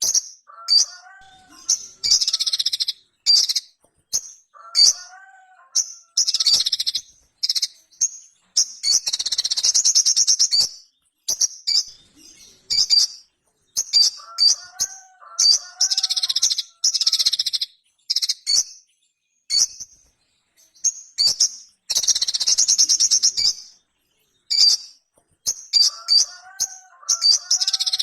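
Little spiderhunter (sogok ontong) singing: high-pitched bursts of rapid chattering notes, half a second to two seconds long, with short gaps between them. A lower warbling phrase comes in four times.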